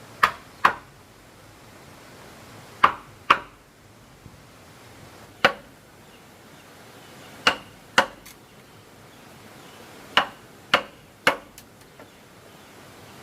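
A hand tool striking wood in sharp single blows, about nine in all, mostly in pairs half a second apart with pauses of two to three seconds between.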